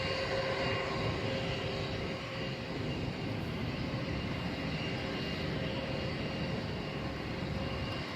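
Boeing 767 jet engines running steadily during landing: a constant whine with fixed high tones over a low rumble.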